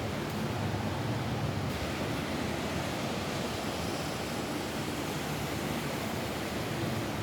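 Steady rain falling on a roof: an even, unbroken hiss with a low rumble underneath.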